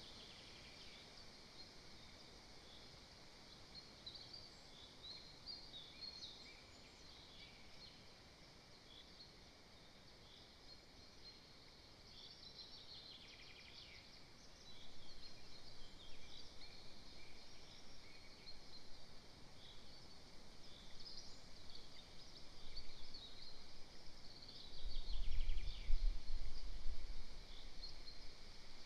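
Small songbirds singing in the woods, many short chirping phrases one after another. A low rumble comes in for a few seconds near the end.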